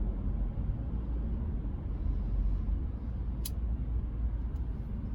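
Steady low road and engine rumble heard inside the cab of a moving Chevrolet C10 pickup, with a single sharp click about three and a half seconds in.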